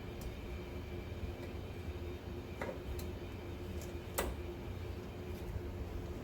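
Steady low hum with a steady tone under it, broken by a few sharp metallic clicks of hand tools working a ball joint press. The loudest click comes about four seconds in.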